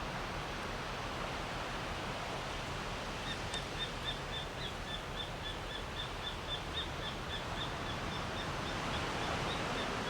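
Steady wash of ocean surf. From about three seconds in, a rapid, even series of short high-pitched chirps, about four a second, from a small animal.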